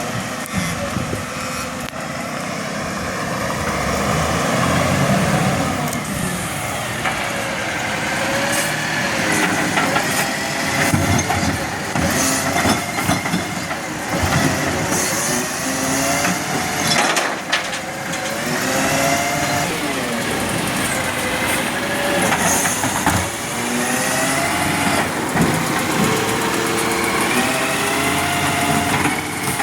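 Garbage truck running, its engine steady under whines that rise and fall in pitch, with a few clanks along the way.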